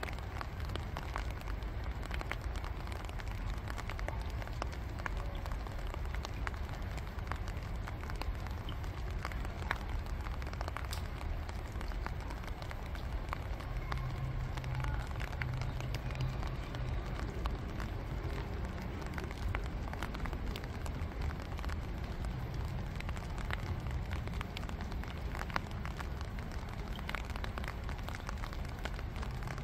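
Light rain falling onto a shallow pond: a steady hiss of rain with many separate small drop ticks on the water.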